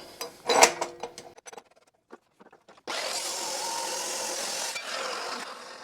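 A power tool cutting into a steel leaf spring, a steady grinding-cutting noise that starts abruptly about three seconds in and lasts about two and a half seconds. It follows a single metallic knock near the start.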